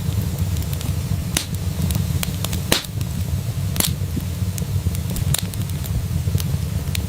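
Wood fire crackling in a fireplace: scattered sharp pops and snaps over a steady low rumble, with two louder pops a little under three and four seconds in.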